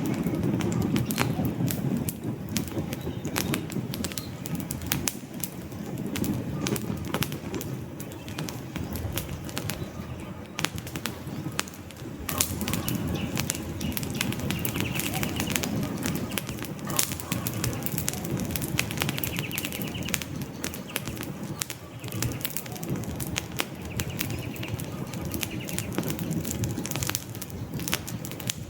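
Wood campfire burning: frequent sharp crackles and pops over a low, steady rumble of flame. A bird calls a few times in the background in the second half.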